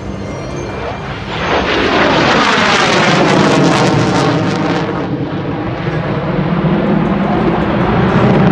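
Military jet passing low at an air show: a loud rush of engine noise swells about a second and a half in, sweeps past with a changing hiss, and eases after about five seconds.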